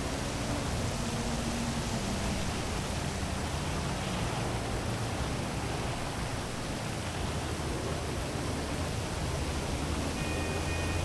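Heavy rain falling as a steady, even hiss, with a low hum of city traffic beneath it. A faint high tone comes in near the end.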